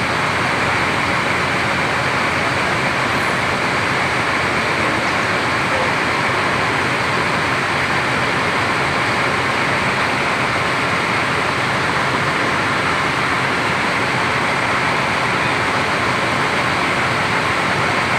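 Steady, unbroken traffic noise of buses running in a bus terminal, with no single event standing out.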